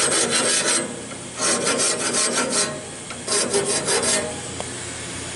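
Three bursts of rapid rasping strokes as the teeth of a Wood-Mizer LT15 sawmill's band blade are sharpened, over a steady hum.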